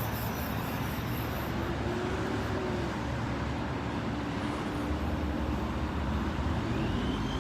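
Steady road traffic noise, with a vehicle's engine passing, its hum drifting slightly lower about two to three seconds in.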